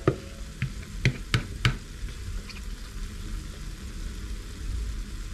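A grated potato, carrot and onion fritter bound with egg, frying in oil in a nonstick pan: a steady, even sizzle, with a few sharp ticks in the first two seconds.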